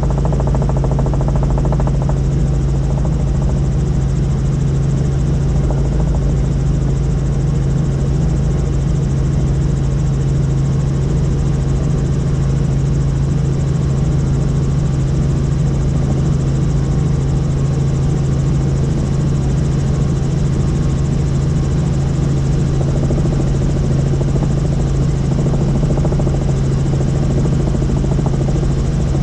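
Helicopter in flight: a loud, steady drone of rotor and turbine with a constant low hum, unchanging throughout.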